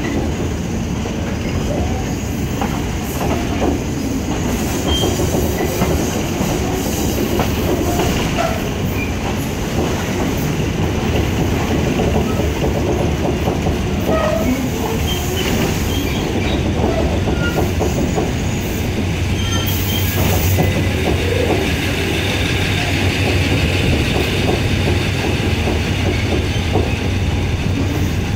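Diesel-hauled State Railway of Thailand ordinary passenger train in motion: a steady rumble of the carriage with wheels clattering over the rails and points, and short squeaks here and there.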